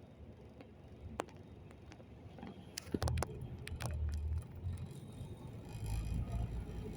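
Inside a city bus: a few clicks and rattles, then a low engine rumble builds about three seconds in as the bus moves off.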